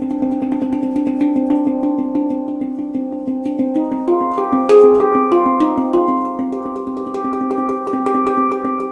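Meraki handpan tuned to an Arabic-sounding scale (G ding with C D Eb F G Ab B C D) played in quick, flowing strokes, the notes ringing over one another. Higher notes join about halfway through, with one louder accented strike.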